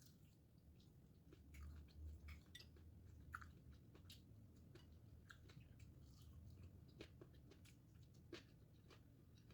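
Faint chewing: scattered wet mouth clicks and smacks of a person eating juicy grilled chicken with their hands.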